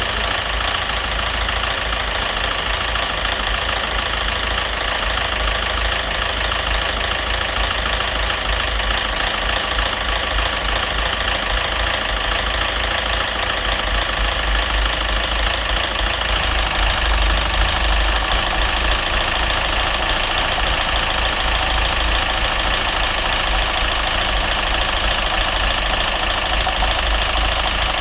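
Citroën DS3's 1.6 petrol engine idling with a heavy knock that fresh oil and a new filter have not cured: the engine has run without oil, with scored camshafts and metal shavings in the oil filter, and the mechanic counts it as finished, unsure whether the knock comes from the head or the crankshaft.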